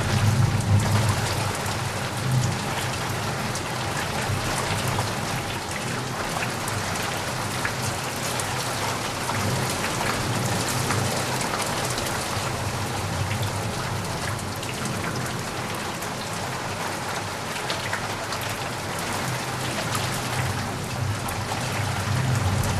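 Steady rain falling, a dense hiss of many drops, with a low rumble underneath that swells at the start and again near the end.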